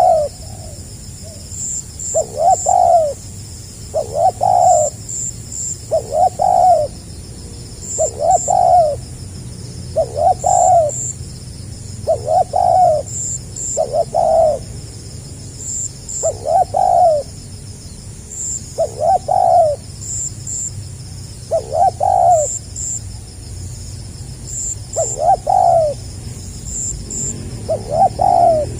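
Spotted dove cooing in the stuttering 'gagap' style: short phrases of several quick coos, repeated every two to three seconds. Faint high double chirps sound at regular intervals behind it.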